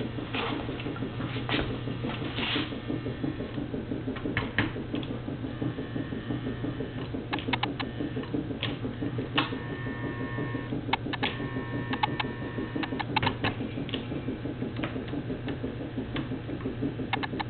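American Flyer 303 S gauge model steam locomotive running on track: a steady motor hum and rumble, with scattered clicks from the wheels on the rails.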